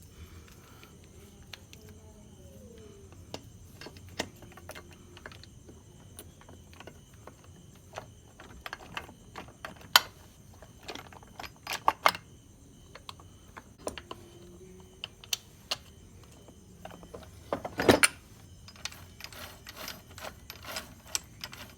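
Small metal clicks and knocks at an irregular pace as the Yamaha RX 135's gearbox shafts and gears are handled and set into the crankcase, with a louder knock about eighteen seconds in and a quick run of clicks near the end.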